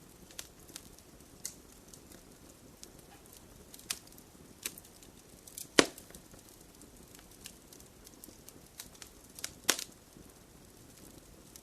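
Wood fire crackling in a fireplace: scattered sharp pops over a faint low hiss, the loudest pop about six seconds in and another strong one about four seconds later.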